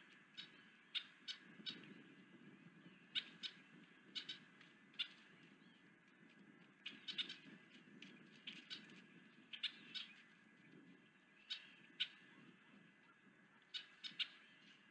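Short, sharp bird chirps at irregular intervals, some single and some in quick runs of two or three, over a faint low background hum.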